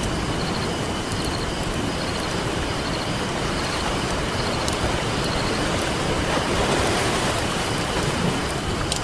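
Ocean surf washing steadily on a beach, swelling about six to seven seconds in, with a campfire's scattered sharp crackles and pops on top.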